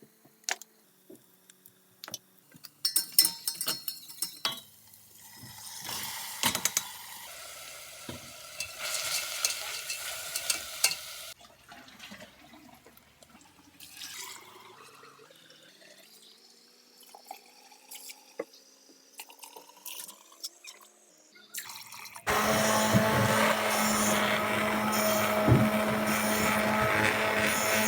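Kitchen sounds: scattered clinks of dishes, then water running from a tap for several seconds, and a slowly rising tone as a vessel fills. Near the end a small electric appliance motor switches on suddenly and runs steadily.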